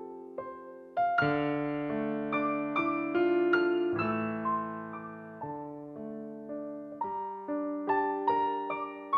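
Slow, gentle solo piano music: single notes and soft chords, with a fuller, deeper chord coming in about a second in.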